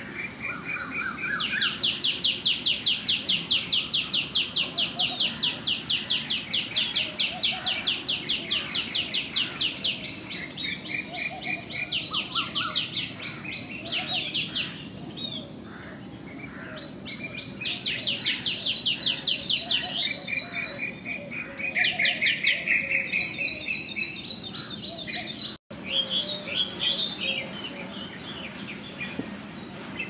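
Small birds singing in long, fast trills of repeated high chirps. The runs last several seconds each, with short pauses between them, over steady low background noise.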